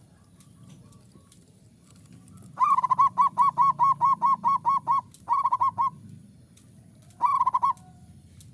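Zebra dove (perkutut) in full song: a fast run of about a dozen short cooing notes, a brief pause, a shorter run, then one short phrase near the end. This is the call kept for drawing a rival bird.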